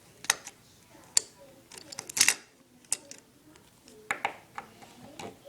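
Light clicks and taps of small plastic toy figures and props being handled, moved and set down, a few irregular knocks with the loudest cluster about two seconds in.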